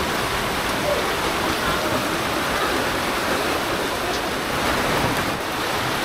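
Heavy rain falling steadily onto standing floodwater, a dense, even hiss of drops with no letup.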